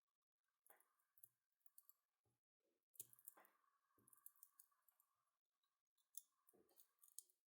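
Faint clicks and short scrapes of hand tools working on a drill motor armature as its old winding is removed.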